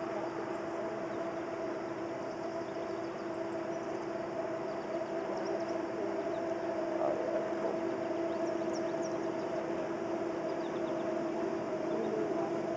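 Diesel locomotives of an approaching freight train heard from afar: a steady droning hum with a held tone, growing slightly louder.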